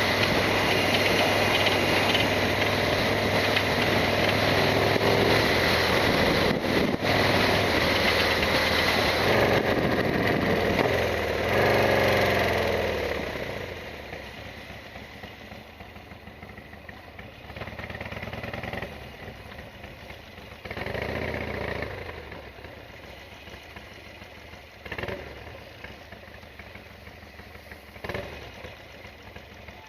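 Harley-Davidson Sportster XL1200R's air-cooled V-twin running under way with wind, then winding down as the bike slows about 12 seconds in. It settles to an idle, with a few short revs.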